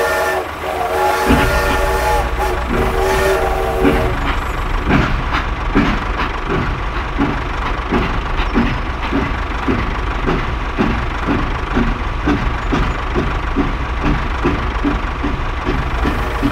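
Toy steam locomotive sounding a chord-like whistle in a few short toots over the first four seconds, then a steady rhythmic chugging of about two beats a second over a low motor hum.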